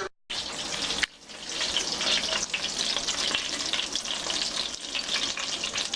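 Food sizzling and crackling in a pan on the stove.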